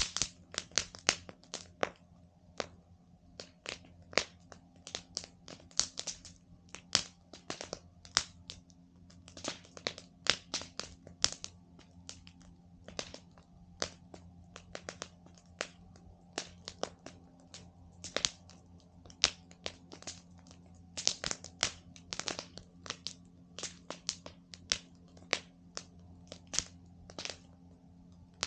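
Campfire wood crackling: irregular sharp snaps and cracks, several a second, some much louder than others.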